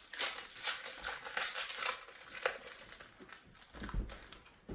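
Crinkling of a foil trading-card pack wrapper being handled and torn open, with a sharp click about halfway and a soft low thump near the end.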